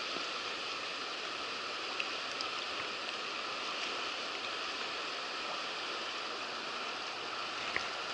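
Steady rushing of the Roaring Fork River's fast water running over rocks.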